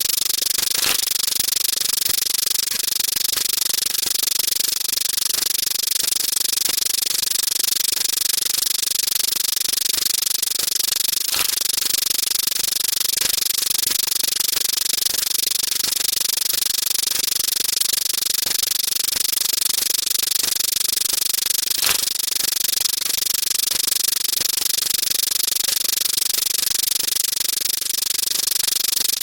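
A dense, steady rattling noise of overlapping sound effects, strongest in the upper range, with a sharp click about every ten to eleven seconds.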